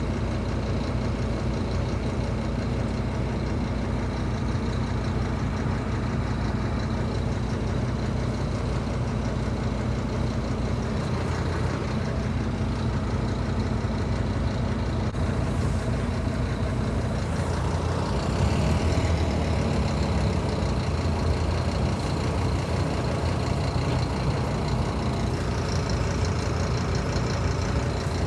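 Scania K310IB bus diesel engine running steadily at idle. About two-thirds of the way in it gets louder and changes pitch, as when the engine is revved or the bus pulls away.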